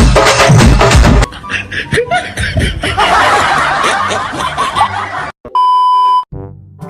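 Comedy sound effects laid over the video: a percussive music beat cuts off about a second in, followed by a snickering laugh effect, then a steady beep of under a second near the end.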